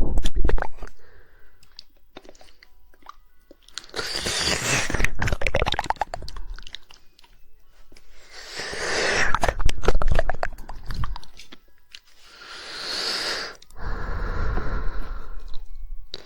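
Close-miked ASMR mouth sounds: rapid, wet tongue clicking (the 'woodpecker' tongue flick) in bursts of a second or two, with short pauses between.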